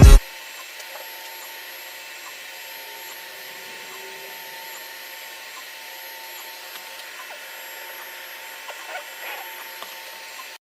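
Orange Storm Giga large-format 3D printer running: a steady whir of fans with faint, even motor tones, and a few light clicks near the end.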